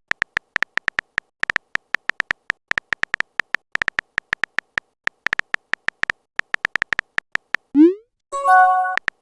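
Rapid runs of short, clicky typing-tap sound effects, as in a chat app where each character appears. Near the end a quick rising 'message sent' blip is followed by a short chime of several steady tones: the message-notification sound.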